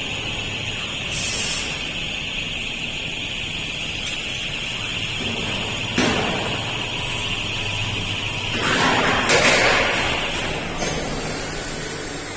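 CNC router spindle running with a steady high-pitched whine, with a sharp click about halfway through. A louder, noisier stretch follows, after which the whine fades away.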